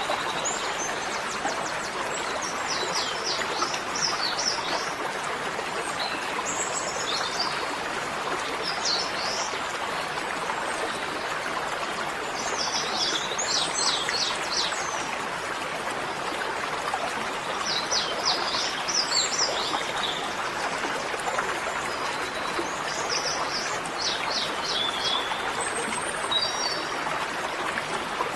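A small songbird sings short, rapid trilling phrases, repeated every few seconds, over a steady rushing noise like running water.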